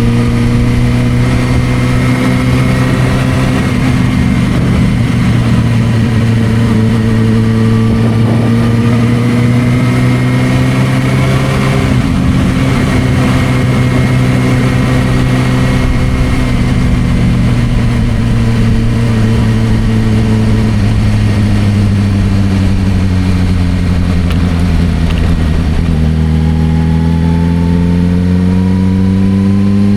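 Suzuki GSR600's inline-four engine through an aftermarket Dominator exhaust, ridden at cruising speed. Its pitch rises and falls gently with the throttle, sinks slowly as the bike rolls off, then climbs steadily in the last few seconds as it accelerates through the gears.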